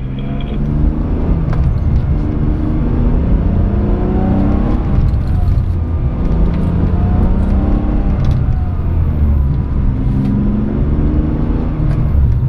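Car engine and road noise heard from inside the cabin while driving, the engine pitch rising and falling several times as the car accelerates and eases off.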